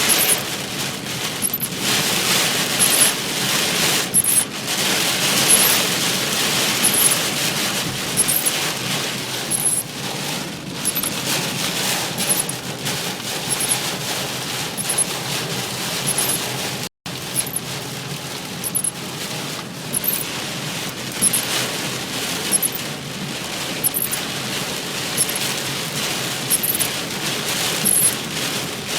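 Heavy rain drumming on a car's roof and windscreen, heard from inside the car as a dense, crackling patter. A faint high click repeats about every second and a half, and the sound cuts out for a split second about halfway through.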